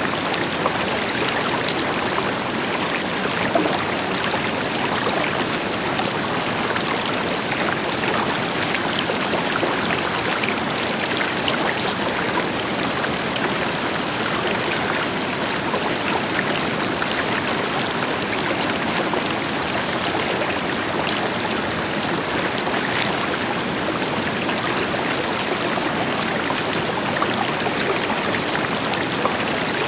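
A river flowing steadily over rocks, with a waterfall's rush underneath, an even churning and splashing that never pauses.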